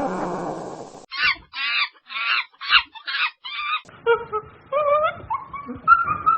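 Domestic fowl calling: six short, sharp calls in quick succession, about two a second. It is preceded by the end of a deeper animal call and followed by a different run of higher, sliding calls.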